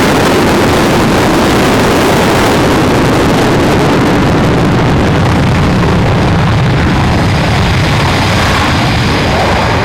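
Loud, steady engine noise from a departing aircraft; its high hiss thins out about halfway through.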